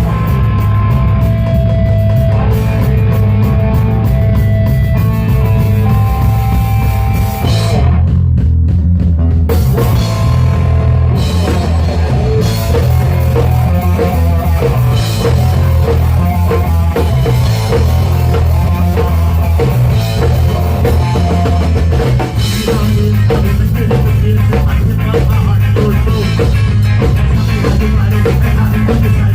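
Live rock band playing an instrumental stretch with drum kit, bass and electric guitar. About eight seconds in, the cymbals and upper instruments drop out for a couple of seconds while the low end carries on, then the full band comes back in.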